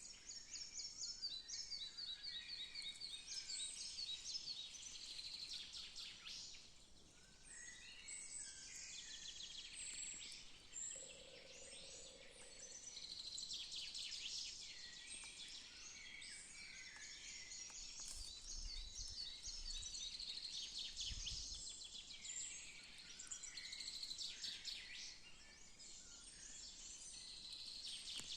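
Several birds singing and calling at once, overlapping high-pitched trills and chirps throughout, with a brief low rumble about two-thirds of the way through.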